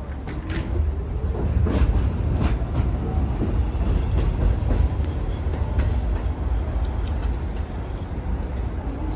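R188 subway train on the 7 line running, its low rumble building over the first two seconds and then holding, with sharp clacks from the wheels over the rail and a faint rising whine at the start.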